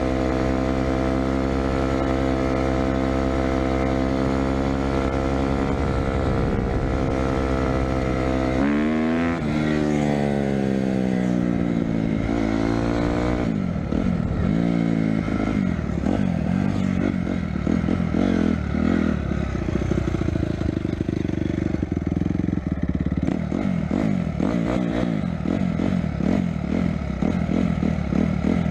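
Motorcycle engine running at a steady speed for about eight seconds, then rising and falling in pitch as the rider works the throttle and gears, then running unevenly for the rest.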